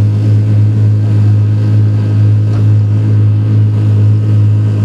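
Car engine idling with a steady, loud low hum, holding one even pitch without revving.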